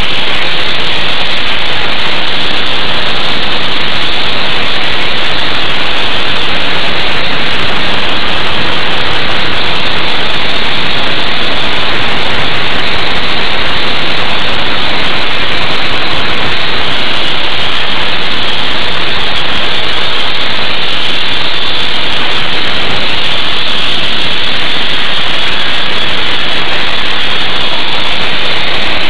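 Sandblasting nozzle blasting abrasive against a boat hull: a loud, steady hiss of compressed air and grit without a break.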